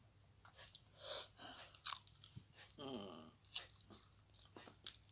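Close, faint mouth sounds of a person chewing avocado: scattered wet clicks and smacks. About three seconds in, a short hum that falls in pitch.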